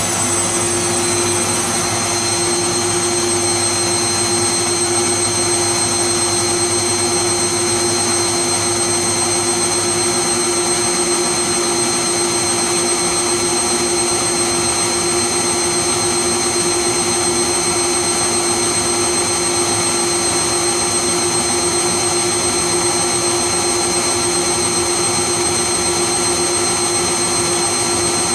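Bosch Serie 2 VarioPerfect washing machine spinning its drum at speed on the Silk programme, a steady motor whine with high-pitched tones over the whirr. The pitch settles about a second in and then holds.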